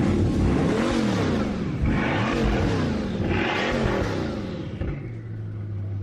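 Car engine through a loud exhaust, revved three times in quick succession from idle, each rev rising and falling, then settling back to a steady idle near the end.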